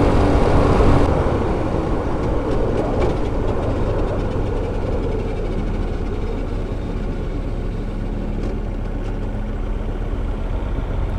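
Hyosung GT125R's 125 cc V-twin engine running, with wind and road noise over the bike. It is loudest in the first couple of seconds, then runs steadier and quieter.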